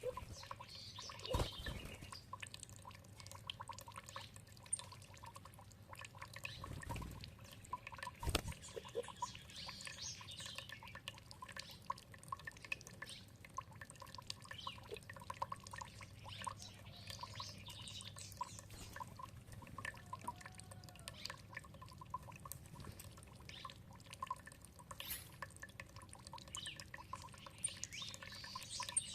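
Water dripping and trickling with many small drips, while songbirds sing on and off. There are a few louder thumps in the first third.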